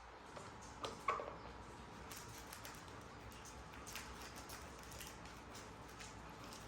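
Faint scattered clicks and light taps, with two sharper knocks about a second in.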